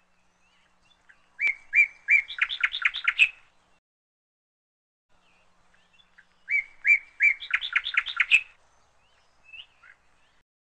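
A songbird singing the same short phrase twice, a few seconds apart. Each phrase is three spaced notes, then a quick run of notes. A few faint chirps follow near the end.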